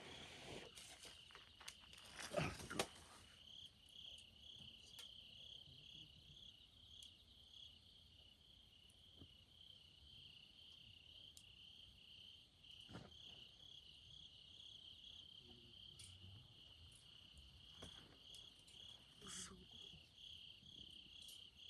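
Crickets chirping in a steady, fast pulsing trill. A rustling scrape in the first three seconds is the loudest sound, and a few faint clicks follow later.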